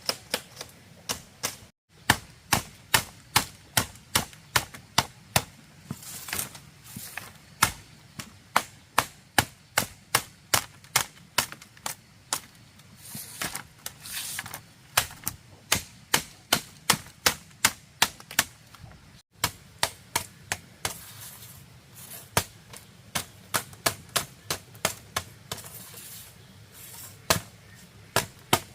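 Rapid, evenly repeated sharp strikes of a hand tool on bamboo, about two or three blows a second. The blows stop for an instant twice, once about two seconds in and once around the middle.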